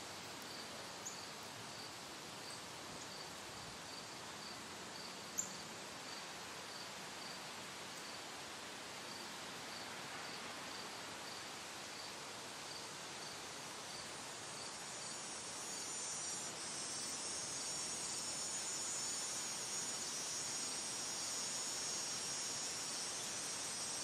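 Outdoor ambience with insects: a faint high chirp repeats about twice a second. About two-thirds of the way through, a denser, louder high insect buzzing joins it. There is one sharp click a little over five seconds in.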